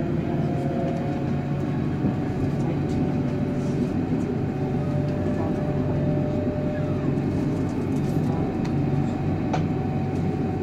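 Berlin S-Bahn train running at speed, heard from inside the carriage: a steady rumble of wheels on the rails with a faint whine in it that rises slightly in pitch.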